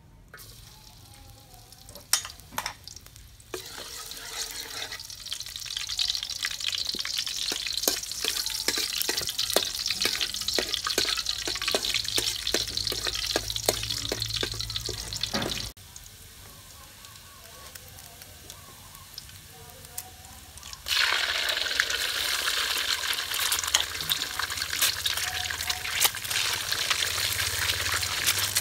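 Chopped pieces sizzling in hot oil in a large steel wok, with a metal spatula tapping and scraping the pan. The sizzle cuts off suddenly about halfway through, then returns louder about three quarters in as eggs fry in the oil.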